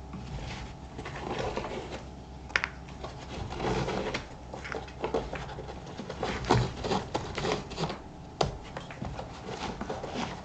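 Laces being pulled out of the eyelets of black Thorogood moc toe leather boots: irregular rubbing and rustling with scattered small clicks, and a sharp click about two and a half seconds in and again near eight and a half seconds.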